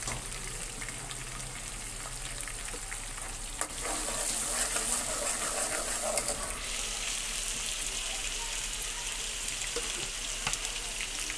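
Onions, tomato and ginger-garlic paste sizzling in hot oil in an aluminium pot, stirred with a metal ladle. A clink comes a little over three seconds in, the sizzle is louder for the next few seconds, then eases a little.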